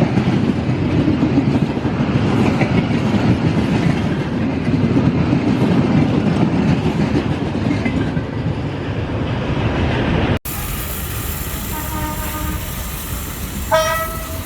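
Train running on the rails, a steady rumble, until an abrupt cut about ten seconds in to a thinner, quieter background. A short pitched sound, about half a second long, comes near the end.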